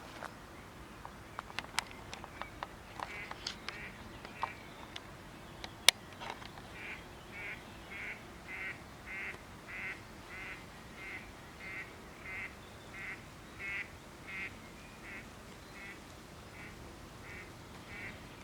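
A duck quacking over and over at an even pace, about three quacks every two seconds, starting about six seconds in. Before that, scattered light clicks, and a single sharp click just before the quacking begins.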